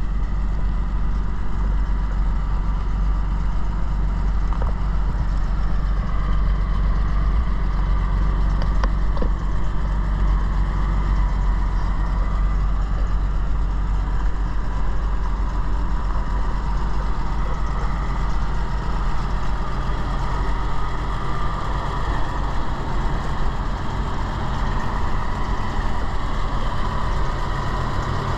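1939 Dodge TE-32 1.5-ton truck's flathead six-cylinder engine idling steadily.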